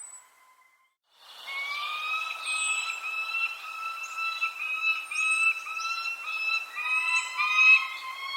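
Birds calling: a steady, slightly wavering whistle-like tone with overtones, with short, high, falling chirps over it. It starts about a second in, after a moment of near silence.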